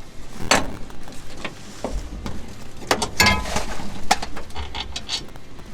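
Metal hand tools clinking and scraping against the underside of a truck while a fuel-tank bolt is worked loose: scattered irregular clicks, with a busier scraping patch about three seconds in.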